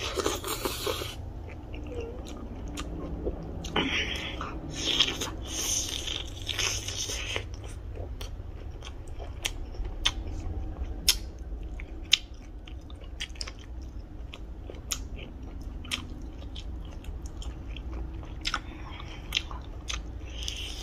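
Eating sounds: chewing and lip-smacking on hand-fed mouthfuls of rice and chicken curry, with many short wet mouth clicks and a few louder noisy stretches in the first second and around four to seven seconds in.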